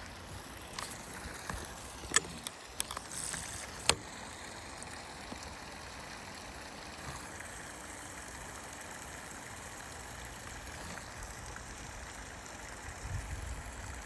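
Creek water running steadily, with a few sharp clicks and a brief rustle in the first four seconds.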